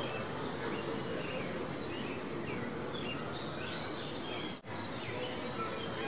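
Small birds chirping in short, arched notes, several repeated over a few seconds, against a steady background hiss. The sound drops out for a split second a little past halfway.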